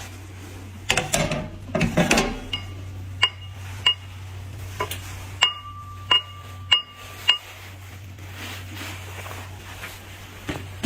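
Tableware clinking: about a dozen light, sharp clinks in a loose run, most of them between two and a half and seven and a half seconds in, each ringing briefly at the same pitch, over a low steady hum.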